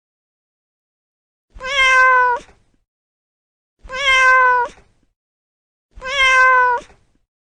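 A cat meowing three times, each meow about a second long and evenly spaced, all three alike in shape.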